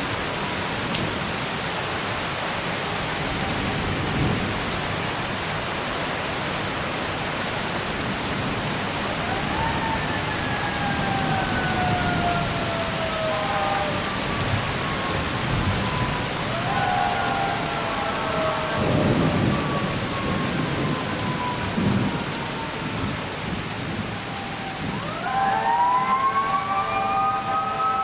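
Heavy rain pouring steadily through a severe thunderstorm, with rolls of thunder, the strongest about two-thirds of the way through. A siren winds up and slowly down twice, then winds up again near the end.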